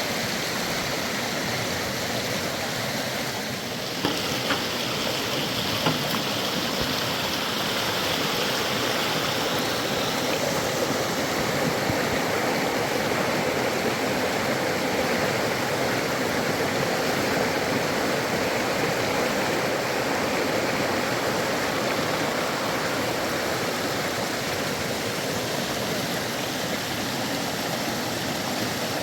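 Fast-flowing river water rushing steadily, with a few small knocks about four to six seconds in.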